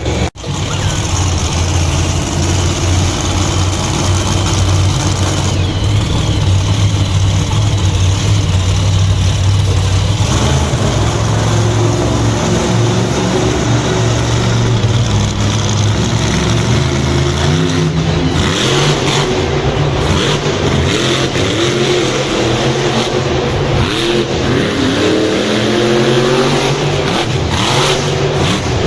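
Monster truck engine running loud, holding a steady note for the first ten seconds or so, then revving up and down repeatedly.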